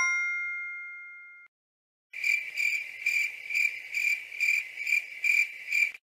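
A two-note 'correct answer' chime rings out and fades over the first second and a half. After a short gap comes a cricket-chirping sound effect: a high, even chirp repeating about three times a second.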